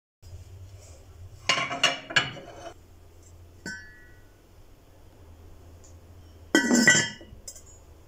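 Hard objects clinking and clattering together in two short bursts, about a second and a half in and again near the end. A single ringing clink falls between them, over a faint steady low hum.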